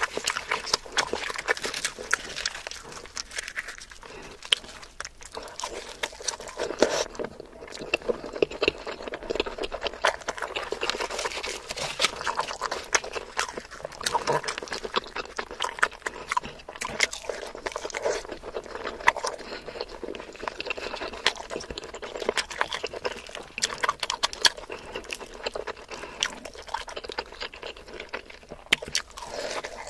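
Close-miked eating sounds: chewing and clicky mouth sounds of fried puri bread eaten with curry, with the soft puri torn by hand at the start.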